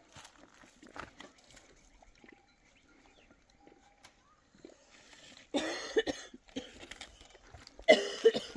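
A woman coughing hard in two bouts, about five and a half seconds in and again near the end: the cough of a cold with fever.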